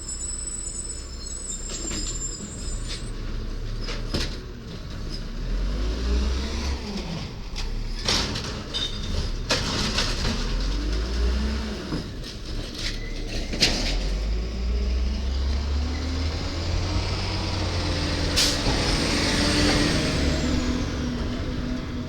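Garbage truck running, its diesel engine revving up and down, with several sharp bangs and clunks and a long hiss near the end.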